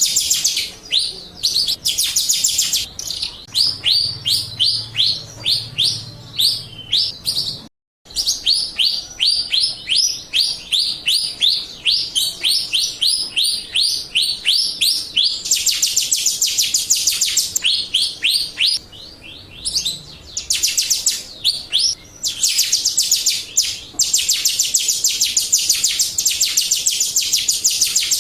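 Jalak Rio starling calling in a fast string of sharp, high, falling chips, about four or five a second, with a brief break about eight seconds in. It is a lure recording (pancingan) meant to set other Jalak Rio calling.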